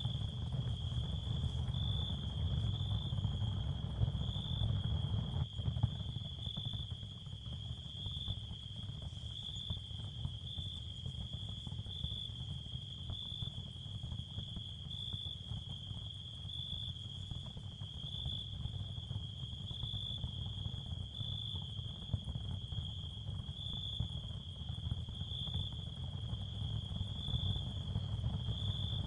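Ambient nature soundscape of crickets chirring in a steady high band that swells about once a second, over a low, steady rumble.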